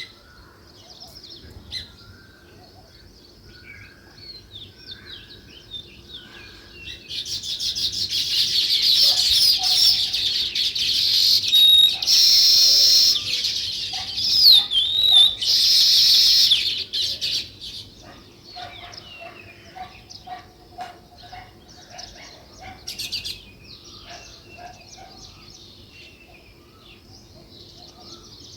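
House sparrows chirping: scattered chirps swell about a quarter of the way in into a loud, dense chorus of chirping for about ten seconds, then thin out again to scattered chirps.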